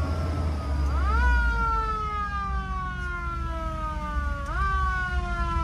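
Emergency vehicle siren sounding with a yelping wail: its pitch jumps up sharply twice, about a second in and again near the end, and each time falls slowly back, over a low engine rumble.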